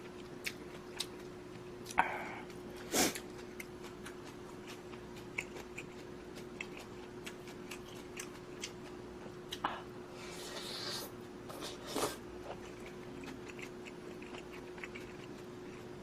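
A person eating budae-jjigae stew with rice: quiet chewing with scattered small clicks and a few louder short noises, over a steady low hum.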